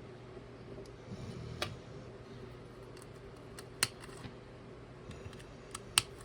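Small plastic clicks and taps as toy building-brick wheels are pressed onto axle bearing plates, a few sharp clicks with the loudest near four and six seconds in.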